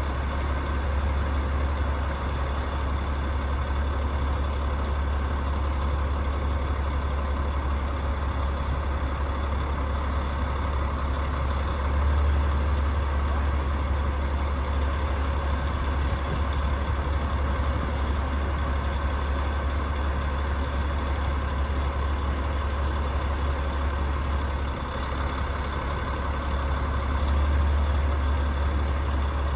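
Rooftop HVAC unit running: a steady, loud low hum with faint steady tones above it, swelling slightly a couple of times.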